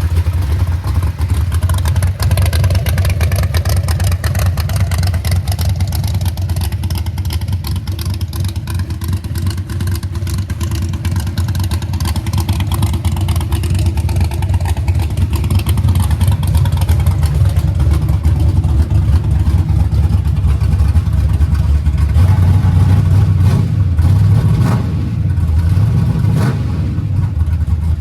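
A 496 cubic-inch big-block Chevy V8 running through fender-exit exhausts, mostly idling, with the revs rising and falling a few times near the end.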